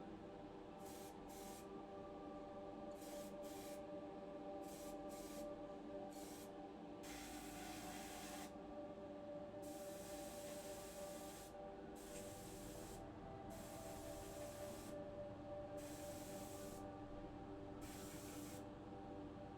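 Repeated bursts of hiss, from a fraction of a second to about two seconds each, starting and stopping irregularly over a steady hum.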